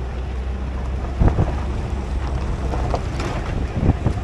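Wind buffeting the microphone over the steady low rumble of a moving tour shuttle, with a few soft knocks.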